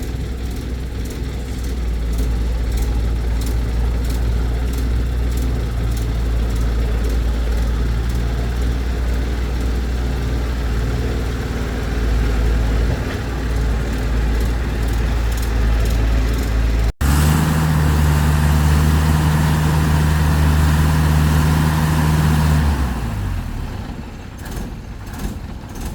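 Heavy earth-moving machinery's engine running steadily at a low, even pitch. About two-thirds of the way through, it switches abruptly to a higher, louder engine note, which falls away near the end.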